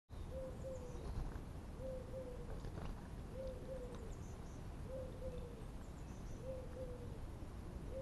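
A bird repeating a low, two-note call with a slightly falling tail, about once every one and a half seconds. Faint high chirps from small birds sound in the background.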